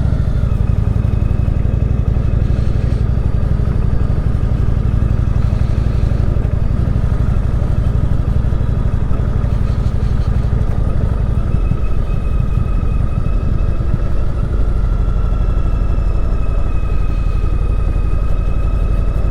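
Indian Chieftain Dark Horse's V-twin engine running steadily at low road speed, with a faint steady whine above it, while the motorcycle rides a loose-gravel dirt road.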